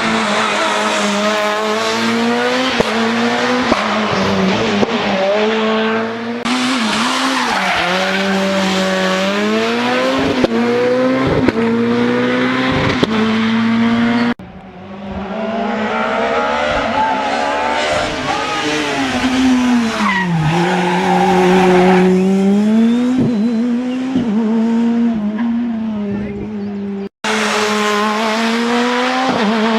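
Rally cars driving a special stage at racing speed, engines revving hard, with the pitch dropping and climbing again through braking and gear changes. The sound cuts abruptly to another car or passage twice, about 14 seconds in and near the end.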